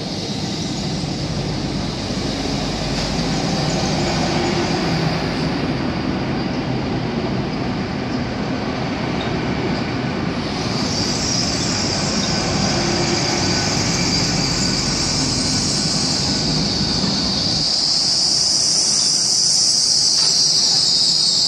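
Great Western Railway Hitachi Class 800 train running in along the platform with a steady rumble. A high-pitched brake squeal comes in about halfway through and wavers in pitch, loudest near the end, as the train slows to a stop.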